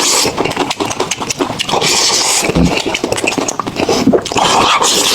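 Close-miked eating: chewing and crunching of food, a loud, dense, irregular crackle of clicks, with harsher crunching bursts about two seconds in and near the end.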